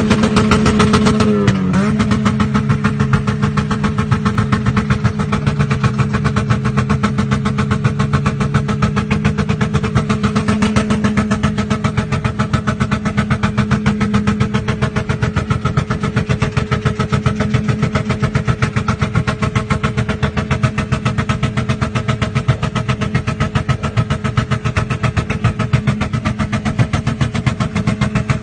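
Demolition derby car's engine heard from inside the cabin, running loud at fairly steady revs with a fast pulsing exhaust note; the revs dip briefly about a second and a half in.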